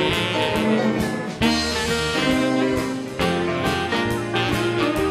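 Western swing band playing an instrumental break: held melody notes from the lead instruments over a steady drum beat, with no singing.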